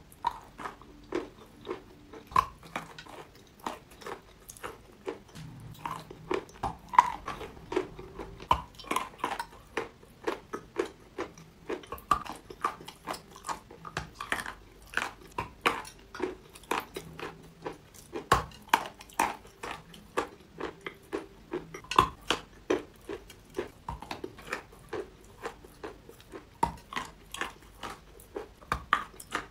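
Biting and chewing dry Sevryukovo chalk: a steady run of dry, crisp crunches, about two or three a second.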